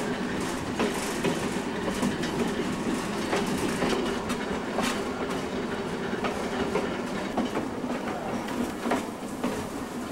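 Steam excursion train's passenger car rolling along the rails: a steady rumble with irregular sharp clicks of the wheels over the track.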